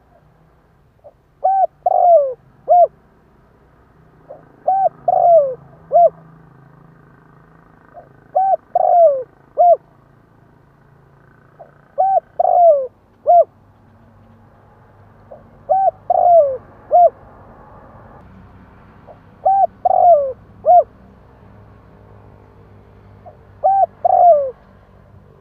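Spotted dove cooing its song, a phrase of about four low coos with a longer falling note in the middle, repeated seven times, one phrase every three to four seconds.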